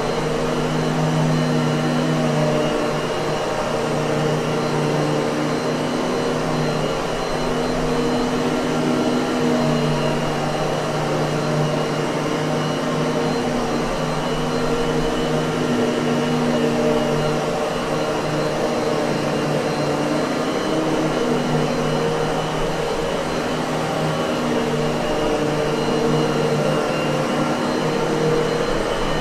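Miele vacuum cleaner motor running steadily, a continuous whirring drone with a steady hum, its low tones swelling and fading slightly every few seconds.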